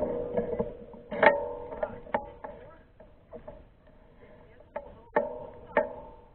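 Sparse plucked guitar notes: a strike about a second in and two more near the end, each ringing out and fading, with quiet gaps between.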